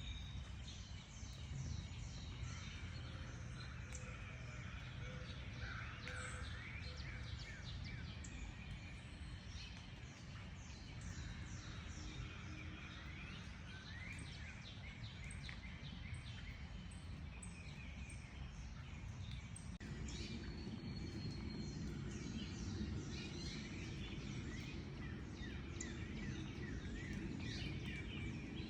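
A chorus of many small birds chirping and singing at once, over a steady low rumble of background noise. The low noise grows louder about two-thirds of the way in.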